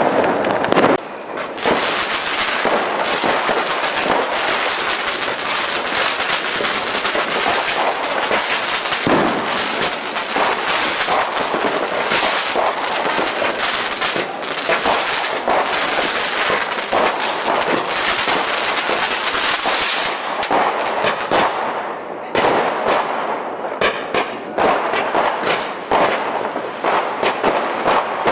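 Fireworks and firecrackers going off everywhere at once in a dense, continuous crackling barrage. About 22 seconds in it thins out into more separate bangs.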